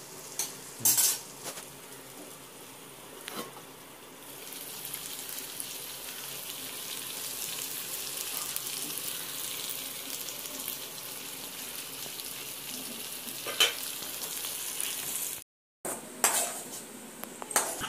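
Cauliflower masala sizzling as it fries in an open metal pan, with a few sharp metal clinks early on. After a break, a cluster of clinks near the end.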